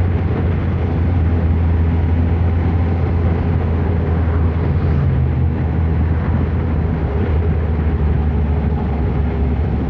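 Kawasaki ZR-7's air-cooled inline-four engine running at a steady cruising speed on the move, with an even rush of wind and road noise over it.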